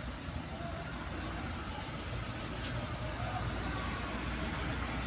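Steady low rumble of idling or slow-moving truck engines mixed with road traffic noise.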